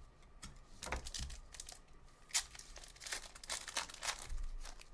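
Foil trading-card pack wrapper being torn open and crinkled, in irregular rustles that are busiest in the second half.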